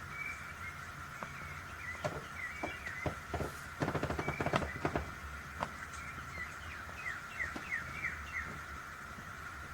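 Wood fire crackling and popping, with a dense cluster of pops about four seconds in, under short bird chirps that come in a quick run about seven seconds in.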